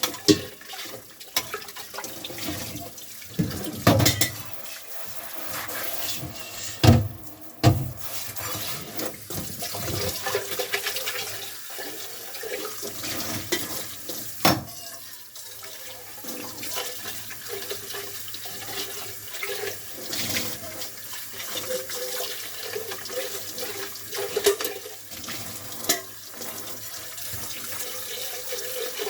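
Kitchen tap running into the sink as dishes are washed and rinsed, with several sharp clunks of dishes knocking against each other or the sink in the first half.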